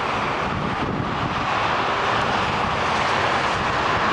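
Steady noise of a Boeing 737-600's twin CFM56-7B turbofan engines as the jet comes in to land.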